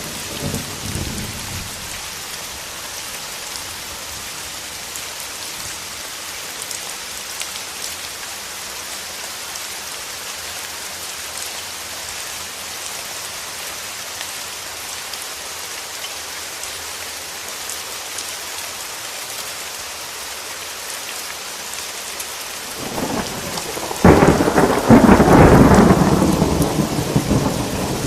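Steady rain falling, with a thunder rumble fading away in the first couple of seconds. About 23 seconds in, a thunderclap builds, cracks loudly a second later and rolls on for a few seconds before dying down.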